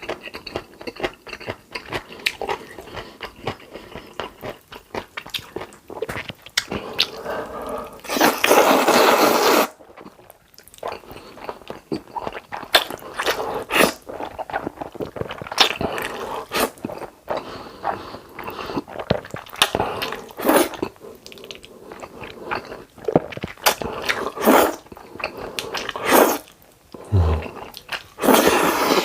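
Close-miked eating: chewing and biting with crunching and wet clicks, broken by several louder noisy bursts a second or two long.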